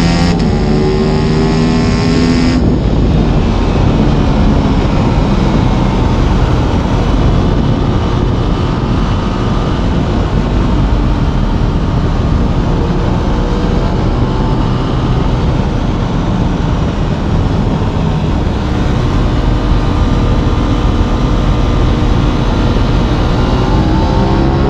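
Aprilia RS 660's parallel-twin engine under way, climbing in pitch as it accelerates for the first couple of seconds, then settling into a steadier run under a rush of wind noise, and rising again near the end.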